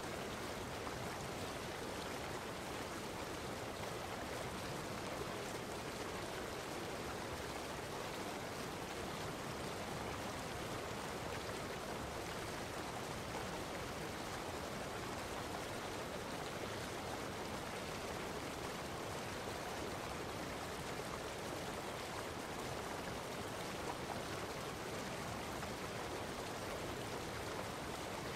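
A steady, unbroken rushing noise of running water, even throughout with no separate splashes or events.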